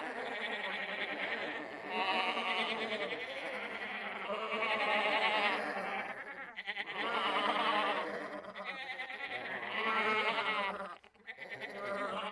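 A person's voice making a string of drawn-out, wordless cries with a shaking, wavering pitch, about half a dozen in a row, each a second or two long, much like bleating.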